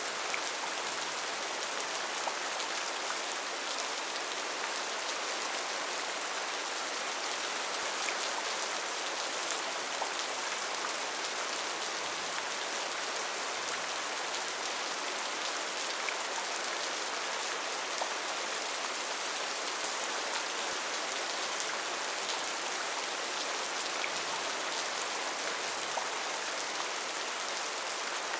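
Steady rain falling on a tin roof: an even, unbroken hiss with scattered individual drops ticking sharply on the metal.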